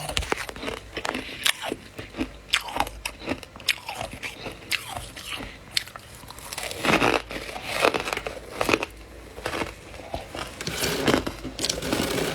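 Soft freezer frost being bitten and chewed, with repeated crisp crunches and crackles, denser about halfway through and again near the end.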